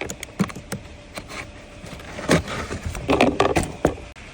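Cabin air filter being worked in and out of its plastic housing behind the glove box: several separate clicks and knocks, with a quick cluster of them near the end.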